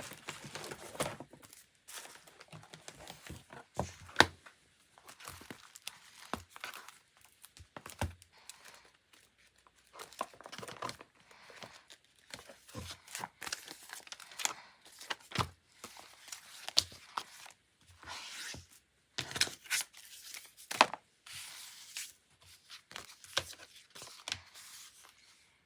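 Paper journal-decorating materials being handled: irregular rustling, crinkling and tearing of paper, stickers or tape, broken by sharp taps and clicks, the loudest about four seconds in.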